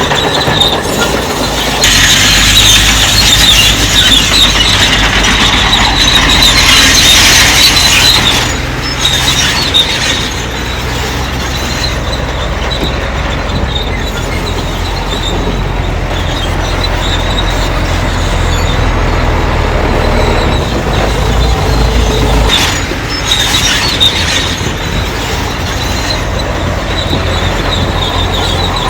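Bulldozer at work: a diesel engine running steadily under a grinding squeal of steel crawler tracks, loudest for the first several seconds and then easing a little.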